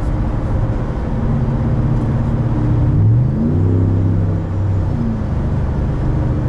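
2020 Ram 1500 Rebel's 5.7-litre V8 with a Carven aftermarket exhaust, running while driving. About three seconds in the revs climb quickly under throttle, hold for a moment, and drop back about two seconds later.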